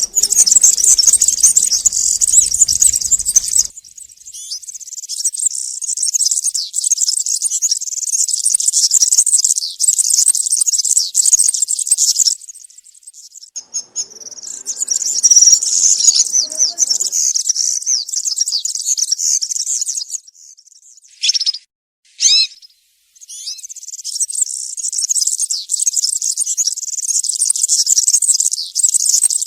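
European serin singing its fast, high-pitched jingling song in long runs, with a short break about halfway through and two quick falling notes a little later before the song resumes.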